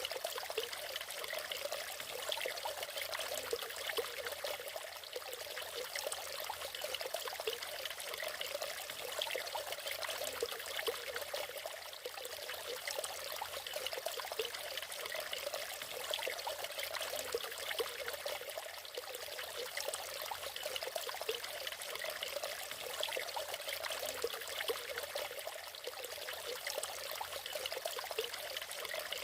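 Small natural waterfall splashing and pouring steadily, a constant bright rush of water without a deep rumble.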